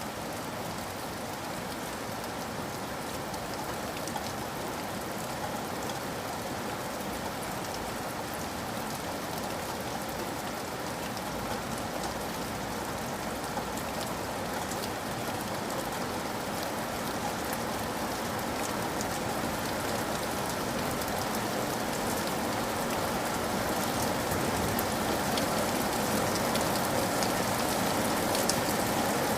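Steady rain, a dense even hiss with many small drop ticks, growing gradually louder.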